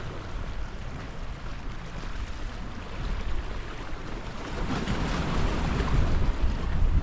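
Wind buffeting the microphone over the wash of choppy sea waves on the shore, swelling louder about two-thirds of the way through.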